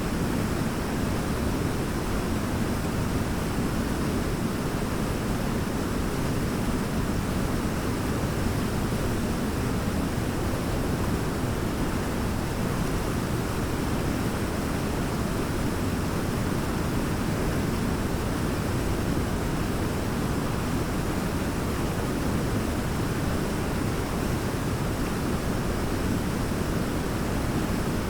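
Large waterfall, water crashing down in a steady, unbroken roar, heaviest in the low range.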